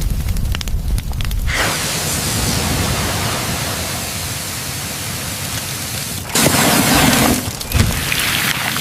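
A low rumble dies away about a second and a half in and gives way to a steady, even hiss, which swells louder for about a second around six seconds in.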